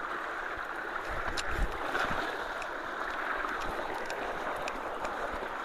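High creek water rushing steadily at a culvert during rain. Wind buffets the microphone with a few low rumbles between about one and two seconds in.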